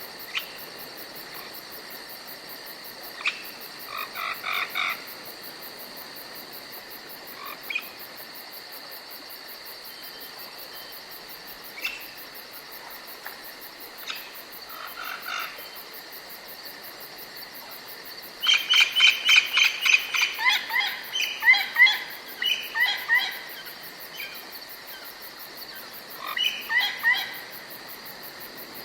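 Forest ambience: a steady high insect drone under scattered songbird calls. About two-thirds of the way through, a loud rapid run of chirping notes lasts a few seconds, and another short burst of chirps comes near the end.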